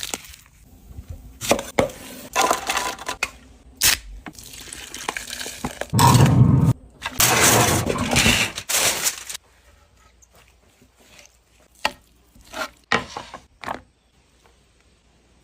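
Cooking sounds: cookware and utensils knocking and clattering, with a louder, longer stretch of noise about six to nine seconds in, then only a few light clicks.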